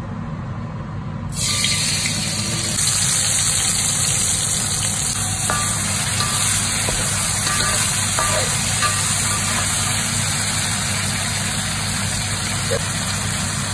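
Blended chilli paste frying in hot oil in a wok, a steady sizzling hiss that starts about a second in.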